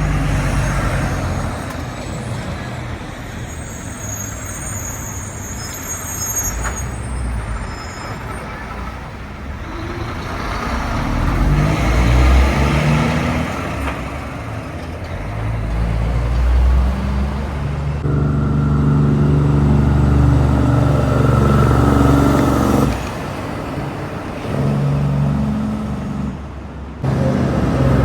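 Heavy diesel trucks and other road traffic passing one after another, their engines rising and falling as each goes by. The loudest, steadiest engine note comes about two-thirds of the way through. A faint high hiss is heard a few seconds in.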